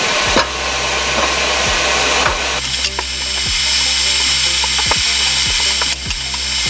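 Forge blower running steadily, its rushing air growing stronger a few seconds in, with sharp clinks of steel stock being picked out and handled.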